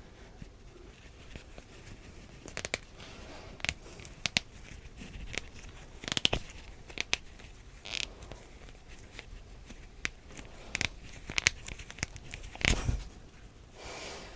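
Plastic yarn needle squeaking and scraping as it is drawn through crochet stitches to sew in a yarn tail, in irregular short rasps with the yarn rustling between them.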